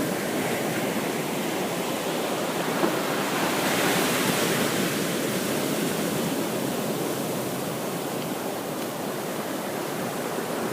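Surf washing up a sandy beach: a steady rush of breaking waves that swells a little about four seconds in.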